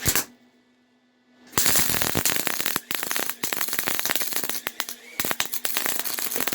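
MIG welder running on straight CO2 gas, its arc crackling and spattering as a bead is laid, with the heat just turned up after a cold weld. A short burst of arc comes right at the start, then steady welding crackle from about a second and a half in, broken by a few brief pauses.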